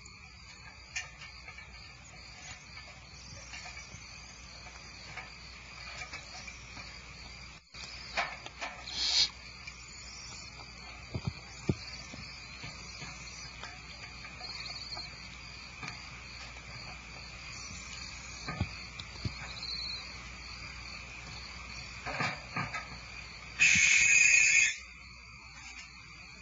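Barn owl nestlings in the nest cavity giving rasping, hissing begging calls: scattered short rasps throughout, with a louder one-second hiss near the end.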